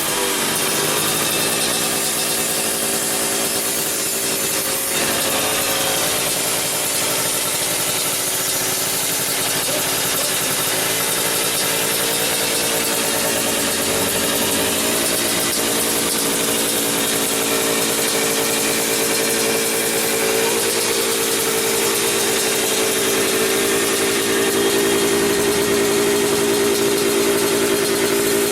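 Yamaha F1ZR two-stroke single-cylinder engine running steadily through an aftermarket galvanized-sheet trail exhaust, with a crisp, ringing note. It grows a little stronger and higher in the second half.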